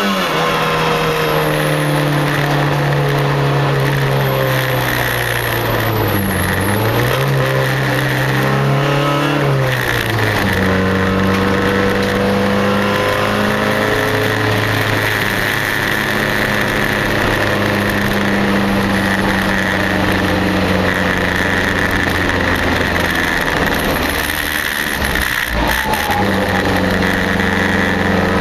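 Race car engine heard from inside the cabin, running at steady revs with a brief dip and recovery in pitch. About ten seconds in the revs fall, and the engine settles into a lower, steady drone.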